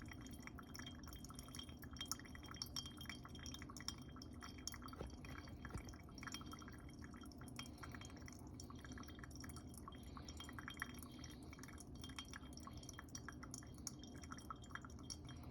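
Pour-over coffee dripping slowly from the brewer, faint irregular drips and small ticks over a low steady hum. The slow drawdown is the sign of grounds ground too fine, which muddy up and hold back the water.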